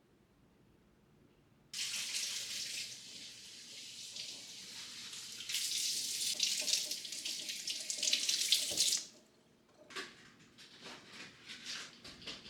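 A water tap turned on and running into a sink for about seven seconds, the flow getting louder partway through, then shut off abruptly. A few light clicks and knocks follow.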